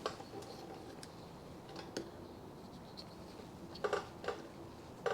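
A few faint, scattered clicks and light handling noises from a motorcycle fork tube being turned on rollers to check it for runout.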